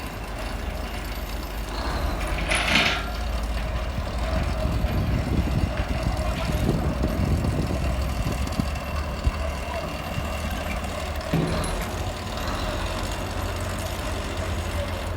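Heavy diesel engine of construction machinery or a truck running steadily with a low rumble, with a short hiss about two and a half seconds in.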